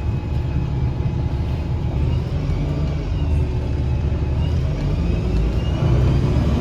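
A 2009 Gillig BRT 40' transit bus's engine and Voith transmission running, heard from inside the bus. Under the steady low drone there is a faint high whine that rises in pitch.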